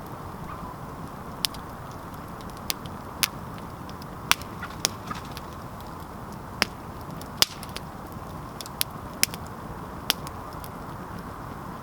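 Wood campfire crackling: about ten sharp, irregular pops over a steady low hiss.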